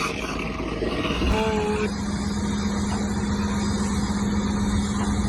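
Motor running amid heavy rushing noise; about a second in, a steady low drone sets in and holds.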